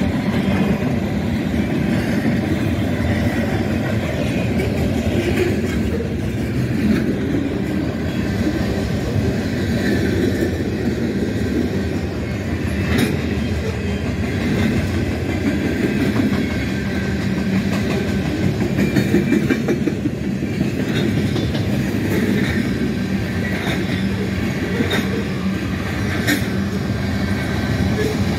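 Freight train cars rolling past close by: a steady rumble of boxcars, tank cars and covered hoppers on the rails, with occasional sharp clicks from the wheels.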